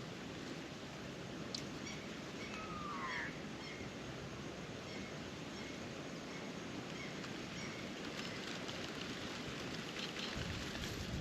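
A single short bird call, falling in pitch, about three seconds in, with a few faint chirps later, over a steady outdoor noise background.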